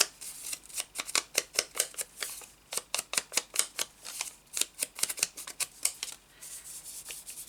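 Quick, irregular tapping and clicking, several strikes a second, of hands working paper and craft tools on a desk. The taps stop about six seconds in, leaving a soft rustle.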